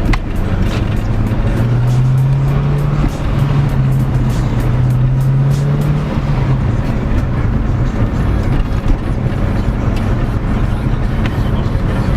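C5 Corvette's V8 engine heard from inside the cabin while driving: a low, steady engine drone that climbs slightly in pitch under throttle a second or two in, holds for a few seconds, then eases off around the middle.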